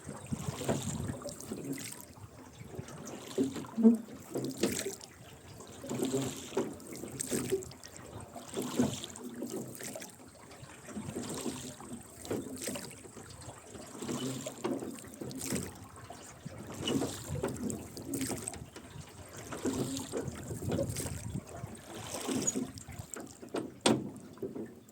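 Rowboat being rowed: oars splashing in the water and oarlocks creaking in a steady rhythm, about one stroke every second and a half.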